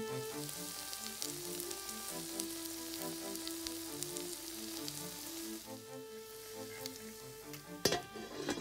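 Pumpkin French toast sizzling in a frying pan, a fine crackling hiss that thins out after about five seconds. Near the end the pan's lid is set on with two sharp knocks, the second the loudest.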